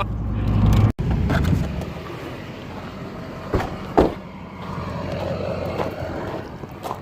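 Low, steady rumble of a truck driving on the highway, heard from inside the cab, cut off abruptly about a second in; after that, quieter background noise with two sharp knocks about half a second apart.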